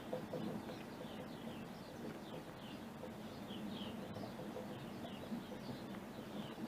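Small birds chirping faintly: a steady run of short, falling chirps.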